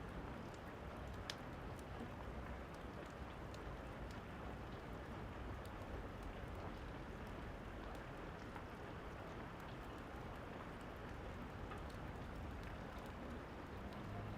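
Steady rain falling, with a few sharp ticks scattered through it, the clearest about a second in.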